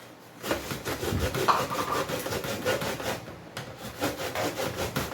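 Fresh ears of corn rasped back and forth over a sharp hand grater in quick, repeated strokes, grating the kernels for pamonha.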